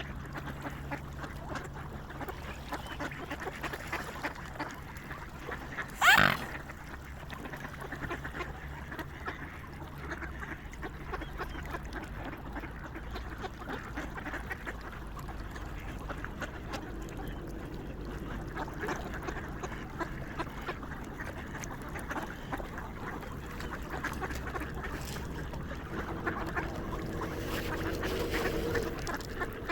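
Flock of swans calling: a steady chatter of many soft calls, one loud call that rises and falls in pitch about six seconds in, and a low drawn-out call near the end.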